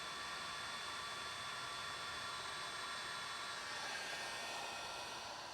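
Steady rushing noise of a small motor-driven blower running continuously, with a faint whine through it.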